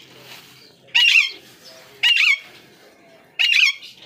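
Alexandrine parakeet giving loud, harsh screeching calls, three in a row about a second apart.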